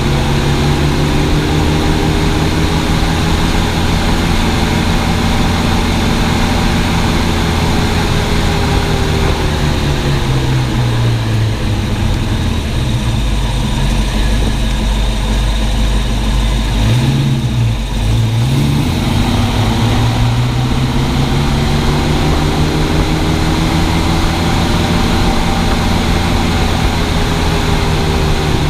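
1965 Mustang driving: engine and road noise. The pitch falls as the car slows about a third of the way in, stays low for a few seconds, then climbs again as it speeds back up.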